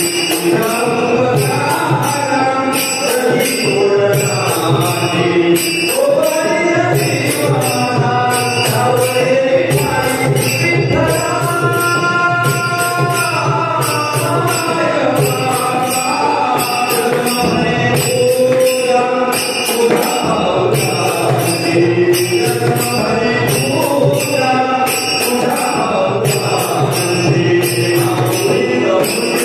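Marathi devotional abhang bhajan: a male lead singer holds long, bending sung lines over steady jingling metallic percussion that keeps an even beat.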